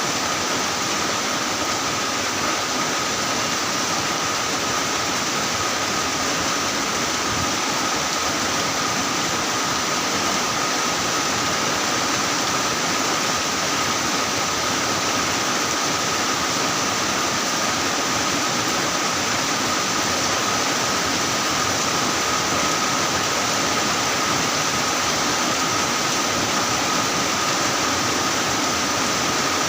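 Heavy rain falling steadily, an even hiss without let-up, with a thin steady tone running through it.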